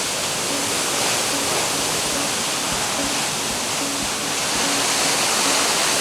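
Steady rushing of a waterfall's falling water, an even hiss with no breaks. A faint short low note repeats a little more than once a second underneath.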